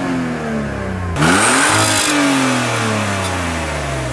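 Car engine being revved in place: the revs fall away, climb sharply again about a second in, then die down slowly.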